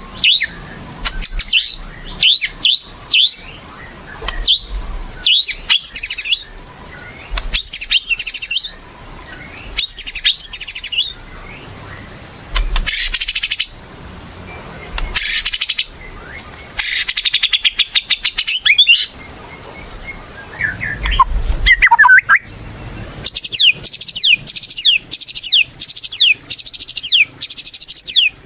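White-rumped shama singing vigorously: loud, varied whistled phrases and trills in short bursts with brief pauses between them, ending in a fast run of repeated falling notes.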